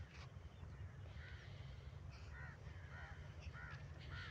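A bird calling faintly in a series of about five short, arched calls, starting about a second in and repeating every half second to a second, over a low steady rumble.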